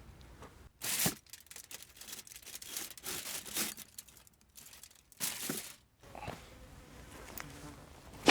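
Crinkling and tearing in several short bursts: one about a second in, a longer stretch after it, and another at about five seconds, with a sharp click at the very end.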